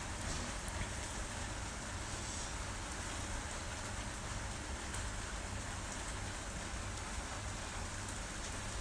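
Heavy rain falling steadily on surfaces, an even hiss with no breaks.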